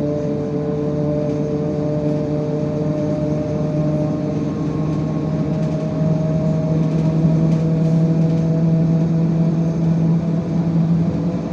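IVECO Crossway 13M LE city bus engine running under way, a steady hum with road noise as heard from inside the bus. Its pitch creeps slowly up, and it grows a little louder about halfway through as the bus picks up speed.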